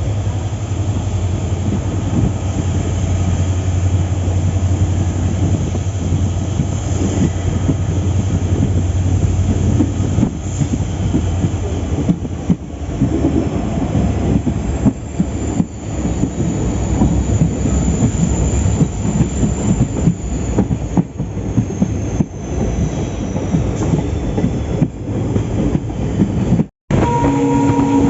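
Passenger train running along the track, heard from inside the coach: a steady rumble and clatter of wheels on rails, with a faint high wheel squeal in the middle stretch. The sound drops out for an instant near the end.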